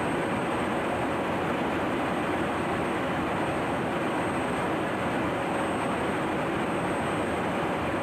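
Fighter jet engine running steadily on the ground: an even rushing noise with a thin, steady high whine above it.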